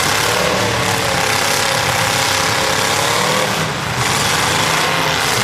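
Demolition derby cars' engines running loud and steady, their pitch rising and falling gently.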